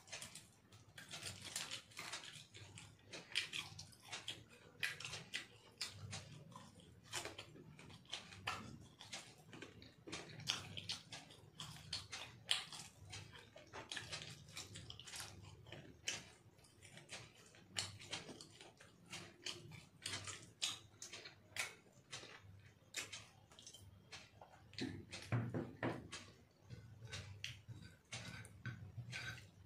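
A man eating biryani with his fingers: faint, irregular wet chewing, lip smacks and clicks, close to the microphone in a small room.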